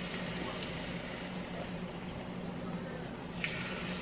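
Beaten eggs sizzling as they are poured onto the hot non-stick plates of a Holstein Housewares double electric omelette maker, a steady crackling hiss. A light click about three and a half seconds in.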